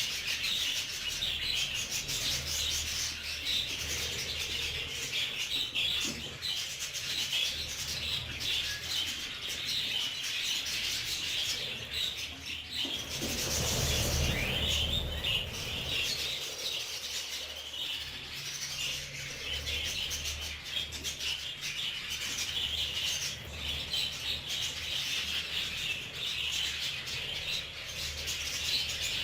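A budgerigar flock chattering continuously, a dense mass of small chirps and warbles. There is a louder burst of rustling near the middle.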